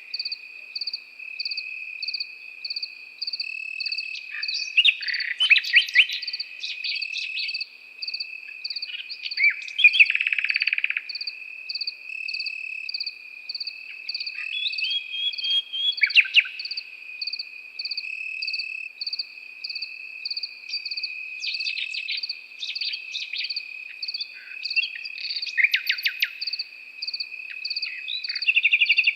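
Nightingale singing loud phrases of rapid repeated notes every few seconds, over the continuous high trill and steady pulsed chirping of crickets.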